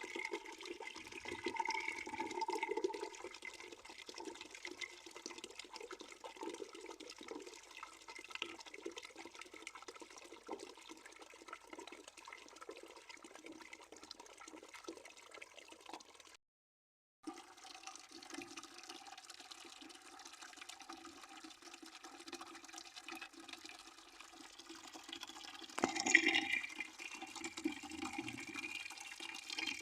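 Water flowing steadily into a bucket, splashing with a ringing, hollow resonance, with a brief total dropout about halfway through and a louder splash near the end.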